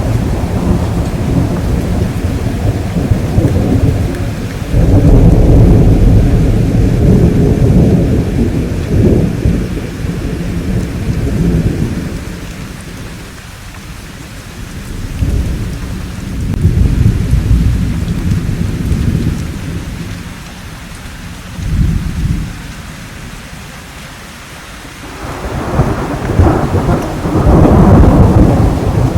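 Thunderstorm: repeated long, low rolls of thunder that swell and fade, the loudest about five seconds in and again near the end, over a steady hiss of rain.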